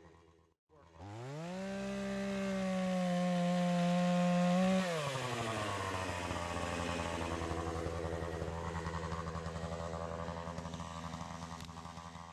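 Chainsaw revving up to full throttle about a second in and holding a high, steady pitch for about four seconds, then dropping back to a lower idle that runs on.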